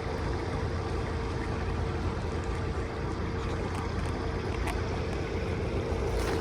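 Floodwater rushing steadily into a culvert still partly blocked by beaver-dam sticks, with a steady low hum under it.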